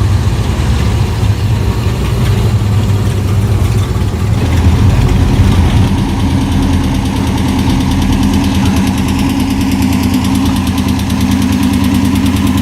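Car engine idling steadily and loudly. A second, higher engine note joins about four and a half seconds in and holds.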